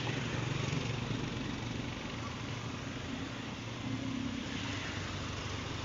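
A vehicle engine running steadily at low revs, a low, slightly wavering hum with no revving.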